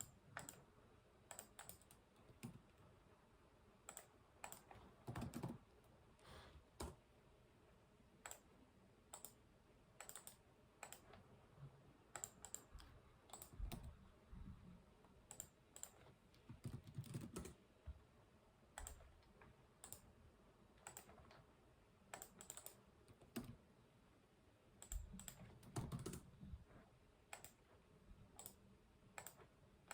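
Computer keyboard typing: uneven runs of keystrokes with short pauses between them, a few of the runs heavier with a duller thump under the clicks.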